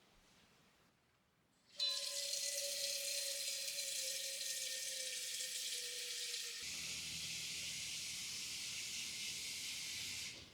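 Water running from a tap in a steady hiss, starting suddenly a couple of seconds in, with a faint whistling tone at first; about halfway through the whistle stops and a low rumble joins, and the water cuts off abruptly near the end.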